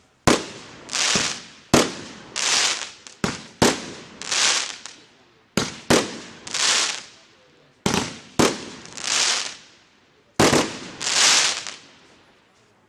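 Consumer firework battery (cake) firing shot after shot. Each sharp launch thump is followed within about a second by a hissing burst in the air that swells and fades. There are about nine shots, some in quick pairs, and the sequence dies away near the end.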